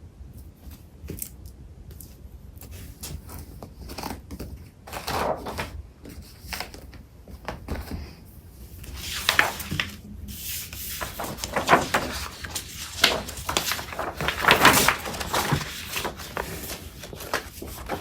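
Paper craft supplies being handled and shuffled: sheets of paper and packaging rustling and crinkling in irregular bursts with small clicks and knocks. Sparse at first, then busier and louder from about a third of the way in.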